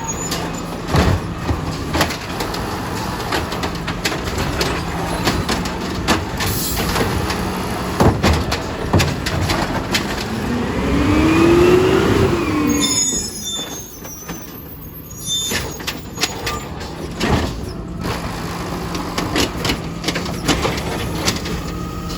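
Recycling garbage truck running steadily, with scattered clunks and knocks. About halfway through, a whine rises and then falls over a couple of seconds as the engine and hydraulics work, the loudest part.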